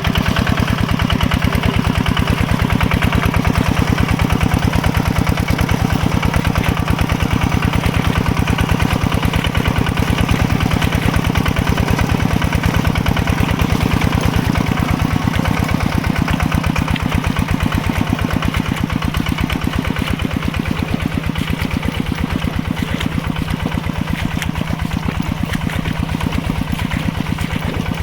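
Mini tractor's engine running steadily with a fast, even beat, a little quieter in the last several seconds.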